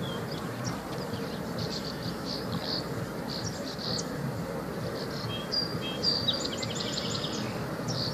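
Several small songbirds chirping and singing, in short high calls throughout, with a quick run of falling notes about six seconds in. A steady low background noise runs underneath.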